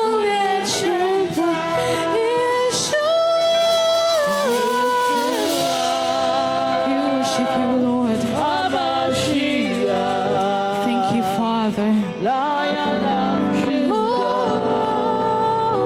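Worship music with singing: a voice holds long notes and slides between pitches over the accompaniment.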